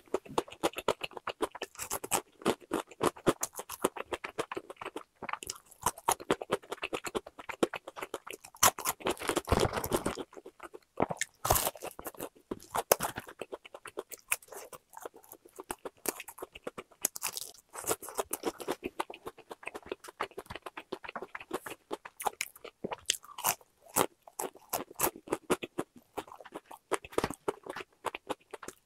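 Close-up chewing of crispy boneless fried chicken: a dense run of crackling crunches as the fried coating breaks, with a few louder bites along the way.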